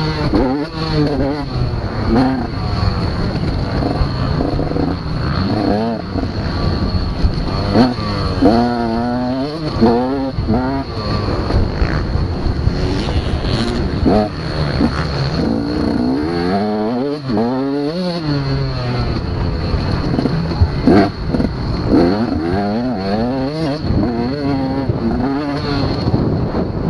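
Several motocross dirt bikes running on a track, their engines revving up and dropping back again and again as they accelerate and shift through the gears, with more than one bike heard at once.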